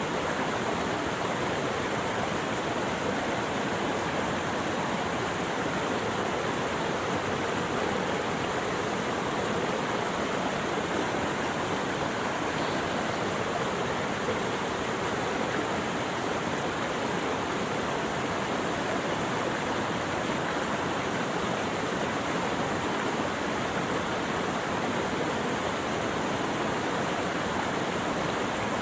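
Steady rushing water, even and unbroken, with no birdsong or other events over it.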